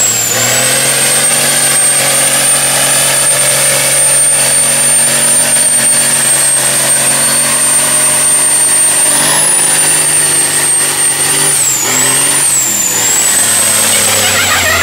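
Diesel truck engine held at steady high revs, with a high whistle over it that wavers a few times near the end. It starts abruptly.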